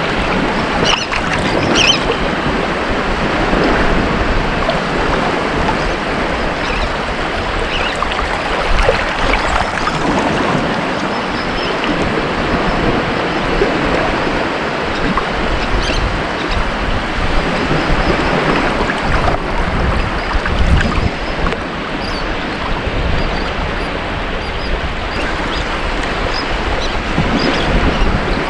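Ocean surf washing onto a beach: a continuous rush of water that swells and eases as the waves come in.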